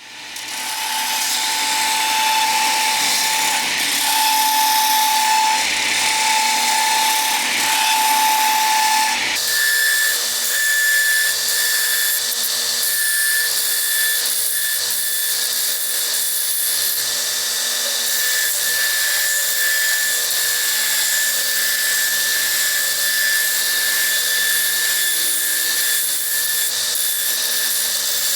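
Electric drill boring holes through steel hinge irons: a steady high whine, its pitch jumping abruptly higher about nine seconds in.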